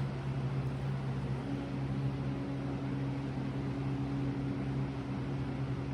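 Steady low hum over a hiss of room noise, with a second, higher hum tone joining about a second and a half in. A single click right at the start.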